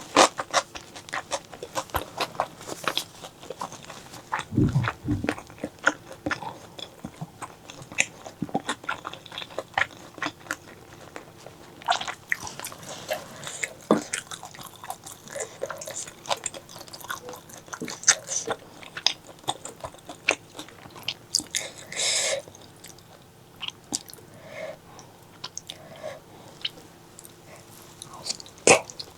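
Close-miked chewing and biting of spicy pork leg curry: wet, irregular mouth smacks and clicks with occasional crunches. A low thump about five seconds in and a short hiss near the end.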